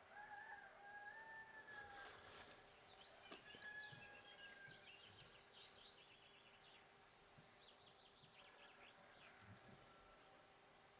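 Faint crowing of a rooster: one long held call of about a second and a half near the start. Small birds chirp and twitter through the rest.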